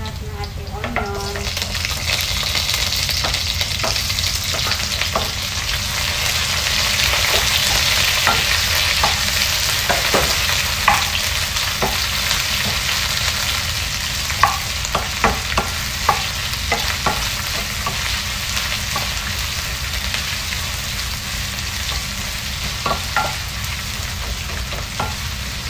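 Ginger and sliced red onions sizzling in hot oil in a wok as they sauté. The sizzle swells about a second in as the onions go into the pan, and a wooden spoon stirring them knocks against the pan now and then in the second half.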